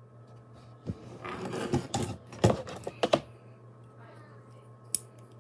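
A burst of clicks and clattering, like small hard objects being handled or knocked together, lasting about two seconds, then a single sharp click near the end, over a faint steady hum.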